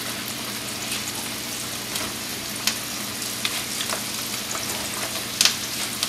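Coated green tomato slices frying in very hot oil in a black wok-style pan: a steady sizzling hiss with scattered crackles and pops. More slices go into the oil, with a sharper pop about five and a half seconds in.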